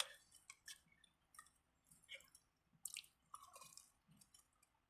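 Faint, wet mouth sounds of a person chewing a sandwich: scattered soft smacks and clicks.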